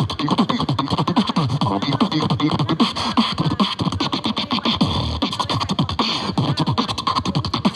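Human beatboxing: a fast, dense run of mouth-made percussive clicks and hits over many quick falling bass sweeps.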